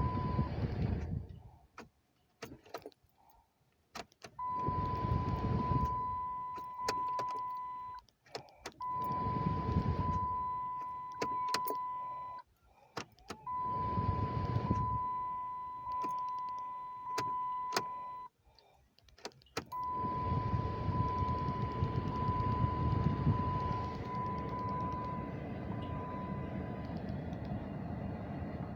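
2008 Dodge Charger turned on with the key several times without cranking: each turn brings a few seconds of steady hum with a high steady tone over it, and sharp clicks of the key and switch come in the pauses between tries. The car is not cranking, an intermittent fault that a replaced starter relay has not cured.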